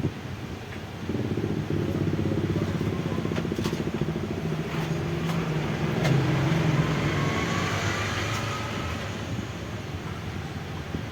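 A motor vehicle engine passes by. Its sound swells about a second in, holds for several seconds and fades away near the end, with a rising whine as it goes.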